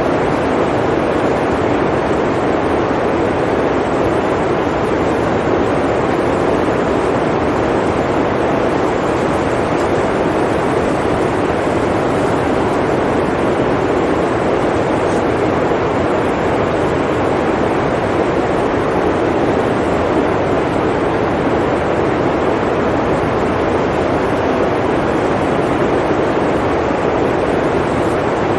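Blizzard wind blowing steadily: a loud, even rushing noise that holds without change.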